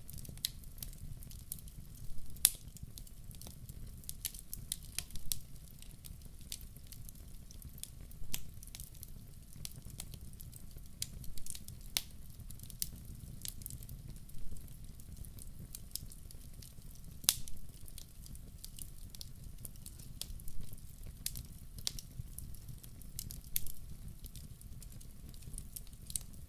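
Wood fire burning in a fireplace: a low steady rumble of flames with frequent irregular crackles and a few sharper, louder pops.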